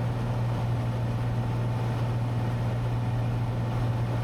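Steady low drone of a Cessna 182T's six-cylinder Lycoming IO-540 engine and propeller in flight, holding an even pitch.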